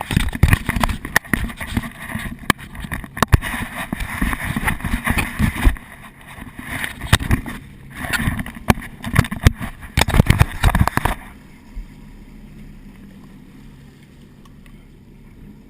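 Boat under way, with loud gusty buffeting and knocking on the microphone. About eleven seconds in it drops suddenly to a low steady hum.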